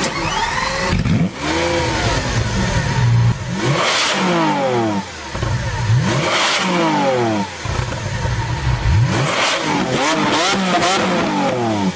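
Supercar engine revved up and down several times, its pitch rising and falling in repeated sweeps with short dips between.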